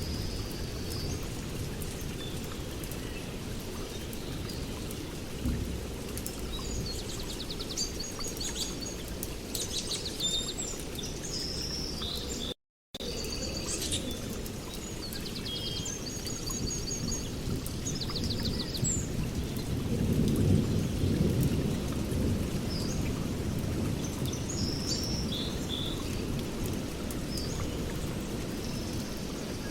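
Small birds chirping and twittering over a steady low rumble, which swells a little about two-thirds of the way through. The sound cuts out completely for a split second near the middle.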